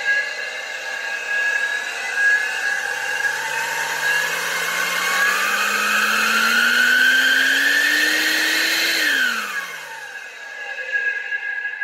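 Turbocharged Ford engine running with a high turbo whistle. The engine note and whistle climb steadily for about six seconds, then drop away quickly as the throttle lifts, about nine seconds in.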